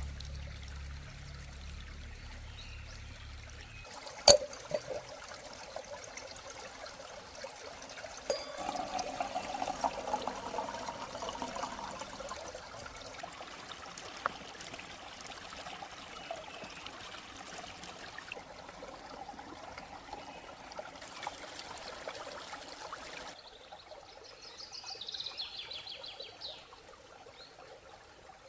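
Water trickling and pouring, with a single sharp knock about four seconds in.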